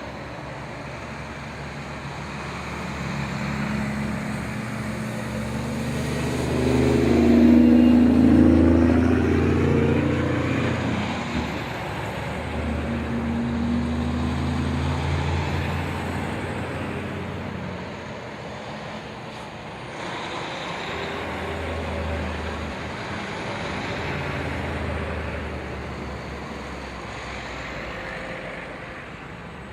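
Tow trucks driving past one after another, their engines growing louder and fading away in turn; the loudest passes about eight seconds in.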